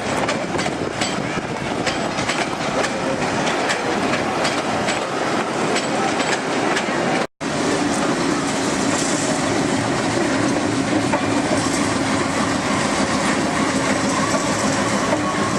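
A passenger train rolling along the platform, its wheels clicking rapidly over the rail joints. After a brief cutout, the train noise goes on more steadily with a low, even hum.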